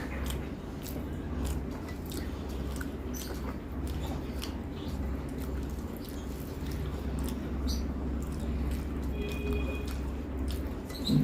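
A person chewing a mouthful of rice and greens, with small wet mouth clicks and smacks, over a steady low hum. A brief louder sound comes right at the end.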